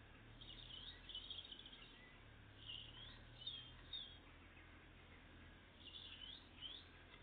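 Small songbirds chirping faintly: short, quickly bending calls come in three clusters, about a second in, around three to four seconds in, and near six seconds in, over a faint low steady hum.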